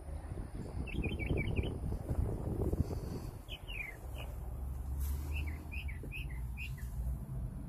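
Small birds chirping in several short bursts of quick, falling notes, over a steady low rumble.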